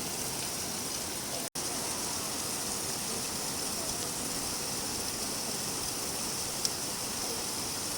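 Steady rain falling, an even hiss of many drops. It cuts out for an instant about a second and a half in, and there is a faint tick later on.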